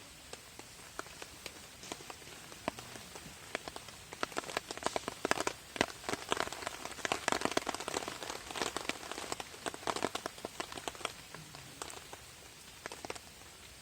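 Raindrops pattering on a camping tarp, the drops coming thick and loud from about four seconds in until about eleven, then thinning to scattered taps.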